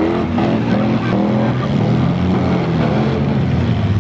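Engines of several demolition derby mini trucks and vans revving at once, their pitches rising and falling and overlapping.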